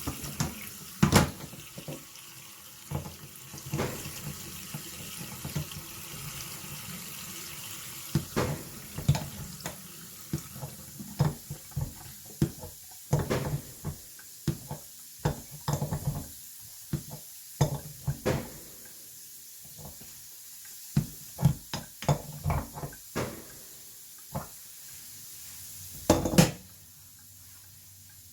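Water running from a tap into a sink, with many sharp metallic clicks and knocks as the tap's ceramic gland and tools are handled; the running water fades away over the last few seconds.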